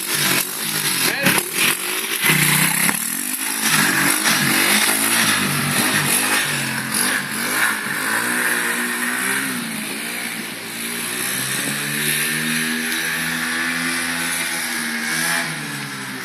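Roketa 125cc pit bike's single-cylinder four-stroke engine running and being revved, its pitch rising and falling again and again, running again after its carburettor was cleaned.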